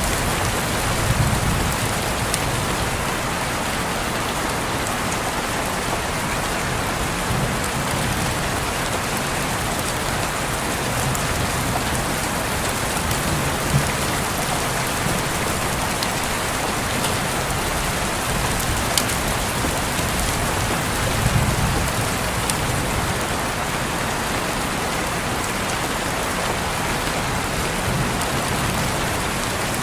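Steady rain falling on a window, with scattered sharp drop taps. A low rumble swells about a second in and again about twenty seconds in.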